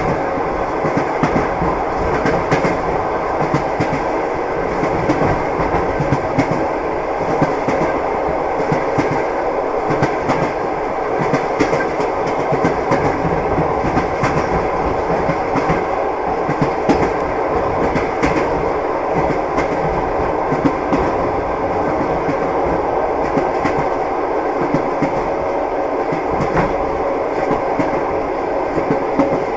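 Train wheels clicking over rail joints with a steady rumble of a running railway carriage.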